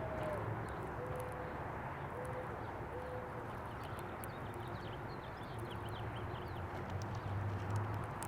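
Birds at a feeder. A dove coos a few short, low notes in the first few seconds, small birds give faint quick chirps about halfway through, and a steady low hum runs underneath.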